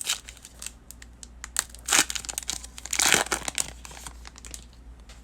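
Foil wrapper of a baseball card pack crinkling and tearing as it is opened by hand, in scattered rustles with two louder bursts about two and three seconds in.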